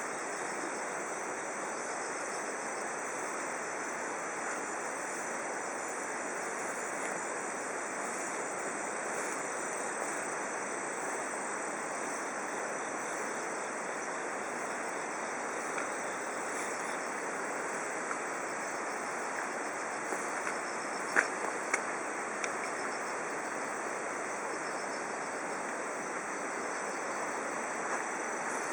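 Steady chirring of insects such as crickets over a constant rushing hiss, with a few sharp clicks about 21 to 22 seconds in.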